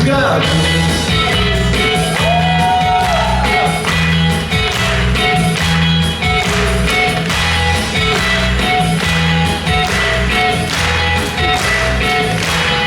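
Live band playing an up-tempo rock-and-roll instrumental passage with a steady drum beat and bass.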